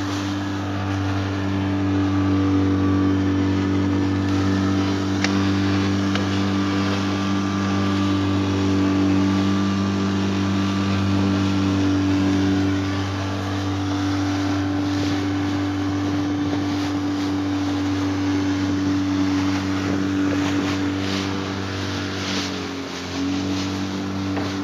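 Motorboat engine running steadily with a low drone, easing back slightly near the end, with water splashing against the hull.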